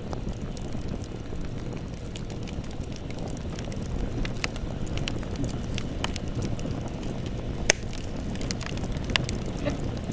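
Campfire burning: a steady low rumble of flames with scattered sharp crackles and pops of burning wood, the loudest pop a little past two-thirds of the way through.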